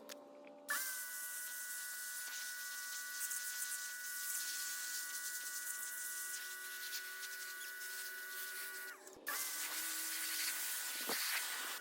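Pressure washer running and spraying: a steady hiss of water with a motor whine on top. It starts just under a second in, cuts off briefly near the end and starts again at once.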